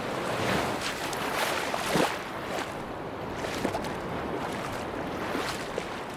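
Small waves washing and splashing on a beach, several short splashes over a steady rush of surf, with wind.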